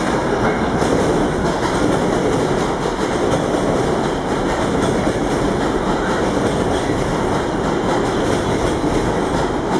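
R142 subway train running along the track, a steady running noise with its wheels clicking over the rail joints.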